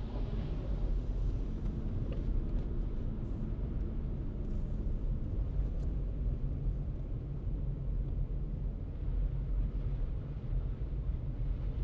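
Car driving: a steady low rumble of engine and tyre noise.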